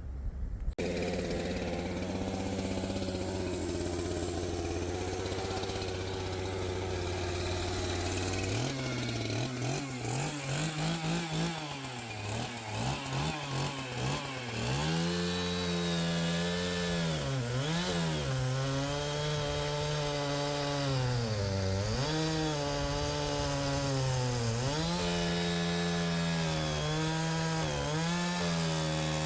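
Gas chainsaw bucking a log: the engine comes on just after the start and idles low, then about eight seconds in revs up and cuts, its pitch dipping again and again as the chain bogs under load in the wood.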